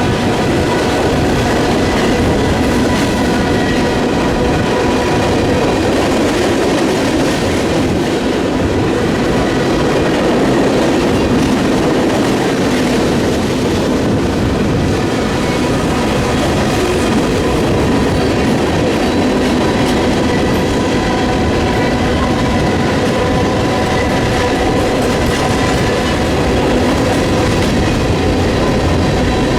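Freight train cars rolling past on the track, a steady continuous rumble and clatter of wheels over rail joints, with faint steady wheel tones over it.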